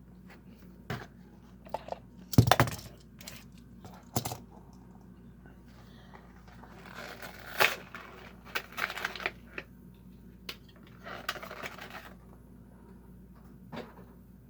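Diecast car blister pack being opened by hand: crackling plastic and tearing card with scattered sharp clicks. The loudest clicks come about two and a half seconds in, with longer stretches of rustling later on.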